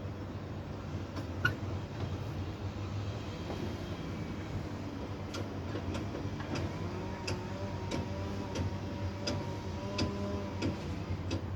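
Steady low mechanical hum with sharp clicks every half second to a second through the second half, and a faint whine of a few steady tones from about six to ten seconds in.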